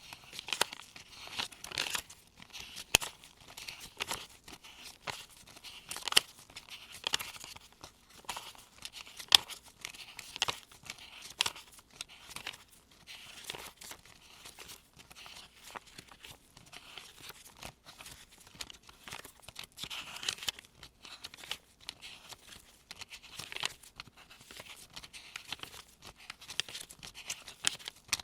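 Gloved fingers page-turn counting a stack of US one-dollar bills: an uneven run of crisp paper snaps and rustles as each bill is flipped over.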